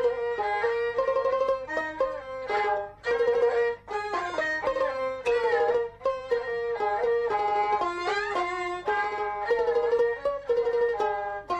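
Jinghu, the high-pitched Peking opera fiddle, playing a brisk melody of short notes with some sliding pitches, with a plucked-string accompaniment.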